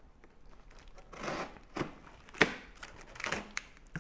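A cardboard shipping box being handled: a rustle about a second in, then several sharp knocks and scuffs, the loudest about halfway through.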